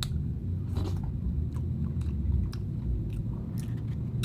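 A person chewing and eating soup close to the microphone, with short wet mouth clicks about once or twice a second. A steady low hum runs underneath.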